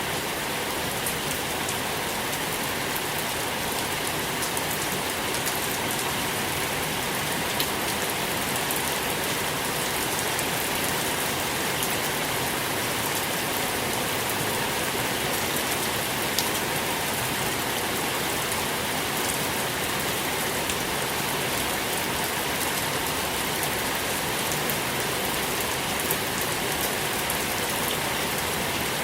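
Steady rain falling, with a continuous hiss and the small close ticks of individual drops hitting a surface.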